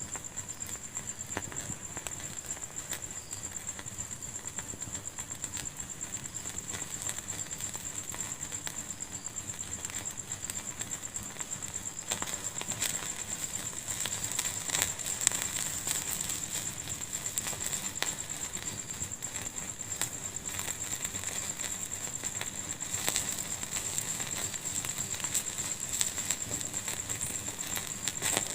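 Wood fire burning in a fireplace, crackling with many small pops that grow denser and louder about halfway through. A steady high-pitched tone sounds behind the crackling.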